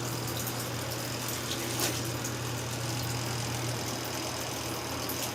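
Mini twin-tub washing machine running its wash cycle: the motor hums steadily while the agitator churns the clothes and water in the wash tub.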